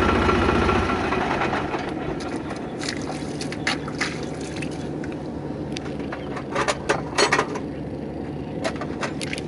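The Fiat DT 45-66 tractor's three-cylinder Iveco diesel is running, then drops away about a second in. After that come scattered sharp metallic clicks and knocks, with a quick cluster of them near the end.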